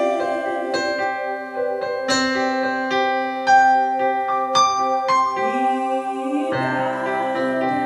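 Instrumental worship music led by a piano or electric keyboard, playing struck single notes over sustained pad chords, with a low bass note joining about six and a half seconds in.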